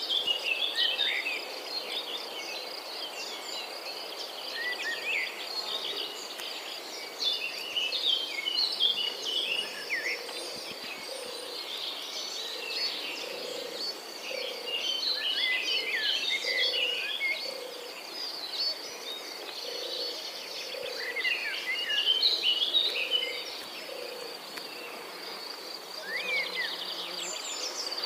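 Outdoor nature ambience: several birds chirping and singing in short, varied phrases over a steady high insect trill, with a low note repeating in the background for much of the time.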